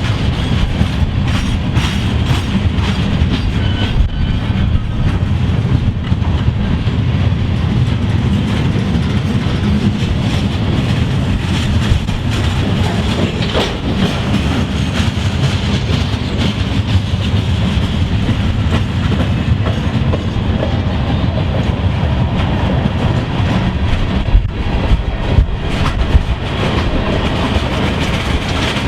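A train rolling past at close range, the steady rumble of its cars mixed with wheels clicking over rail joints. The clicks come thicker near the end.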